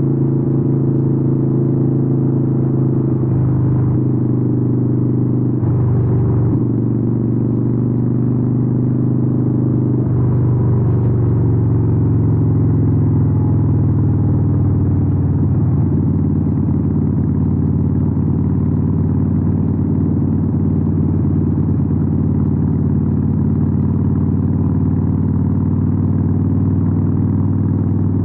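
Harley-Davidson 883N's air-cooled 883 cc V-twin running through Vance & Hines exhausts while riding. The engine note changes briefly a few times in the first half, then holds steady.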